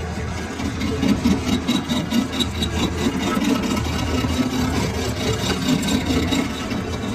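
Lathe running: a steady machine hum with dense mechanical noise over it.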